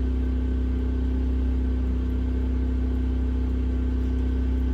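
Generator engine running at a steady speed, a constant low hum.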